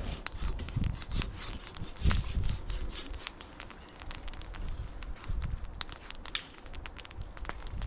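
Dry wood crackling and snapping in irregular sharp clicks, with a few dull thumps, the loudest about two seconds in.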